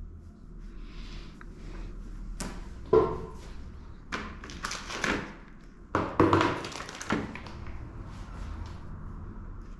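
A few sudden knocks and thuds, the loudest about three seconds in and again about six seconds in, with lighter taps between them, over a low steady background hum.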